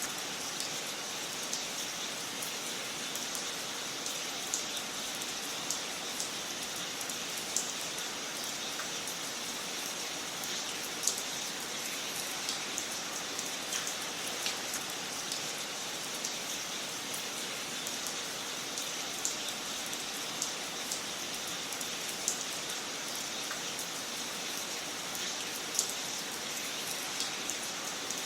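Wood fire crackling in a fireplace: a steady hiss with irregular sharp pops and snaps, a few louder than the rest.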